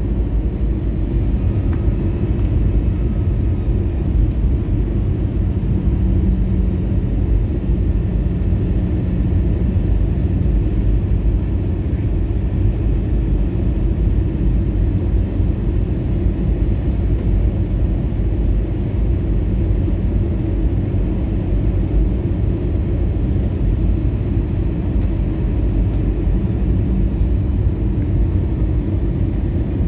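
Steady low cabin rumble of an Airbus A320-214 in flight on descent: airflow over the fuselage and the CFM56 engines, heard from inside the forward cabin.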